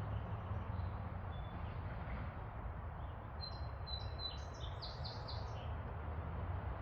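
A songbird chirping a quick run of high notes, a few rising chirps about halfway through, over a steady low background rumble.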